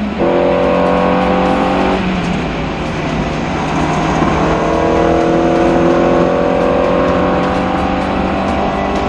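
Racing car engine accelerating hard: its pitch climbs, breaks with an upshift about two seconds in, then climbs steadily again through the next gear.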